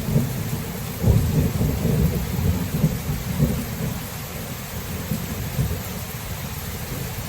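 Thunderstorm: steady rain hiss with low rolling thunder underneath. The thunder swells about a second in and eases off in the second half.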